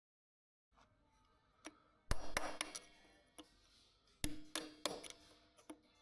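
Metal tools and parts clinking and knocking, each sharp strike leaving a short metallic ring. The strikes come in a few clusters, the loudest about two seconds in and another about four seconds in.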